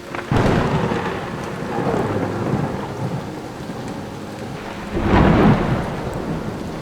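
Thunder with rain falling: a sudden close crack just after the start that rolls on as a long rumble, then a second loud peal about five seconds in.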